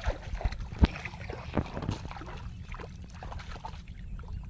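Water sloshing and trickling with scattered sharp knocks, the loudest about a second in.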